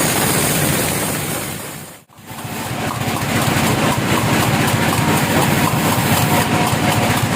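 A heavy engine running with a fast, even pulse under a loud noisy spread. About two seconds in it fades almost to silence and then comes back up to the same level.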